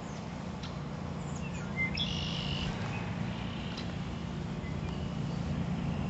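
Wild birds calling: short high chirps here and there, with one longer call about two seconds in, over a steady low rumble of background noise.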